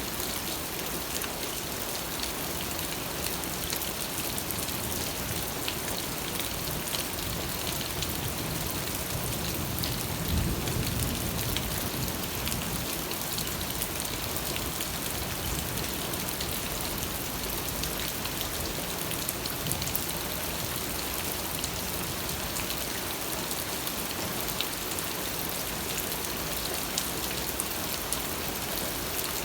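Steady rain falling, with many small drop hits heard in it and a brief deeper swell about ten seconds in.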